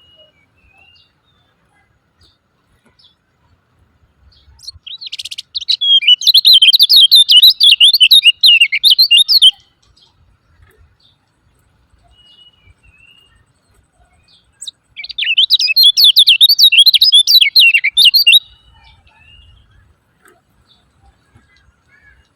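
Kecial kuning (lemon-bellied white-eye) giving two long bouts of rapid, high 'ciak ciak' chattering, each lasting about four seconds, with a few faint chips in the gaps between them.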